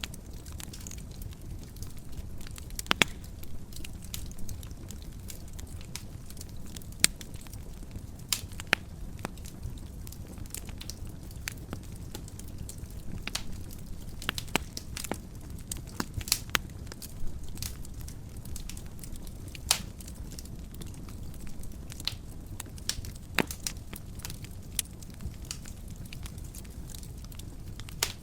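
Wood fire crackling, with scattered sharp pops and snaps over a steady low rumble of flame.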